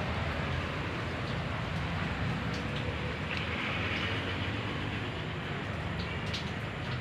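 Steady low rumbling noise with hiss, with a few faint clicks as screws are fitted to the air conditioner outdoor unit's cover.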